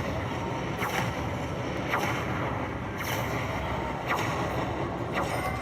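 Slot machine playing its bonus-spin sounds, a sharp hit about once a second, over the steady din of a busy casino floor.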